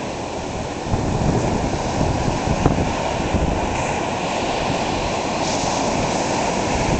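Atlantic Ocean surf washing ashore on a beach: a continuous wash of breaking waves, slightly louder from about a second in, with wind buffeting the microphone.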